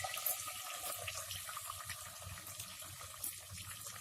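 Oil and butter sizzling in a hot pan: a steady hiss with small crackles.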